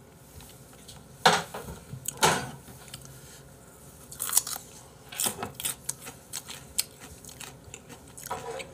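A person biting and chewing a raw carrot stick: loud, crisp crunches every second or so, with many smaller crunches of chewing in between.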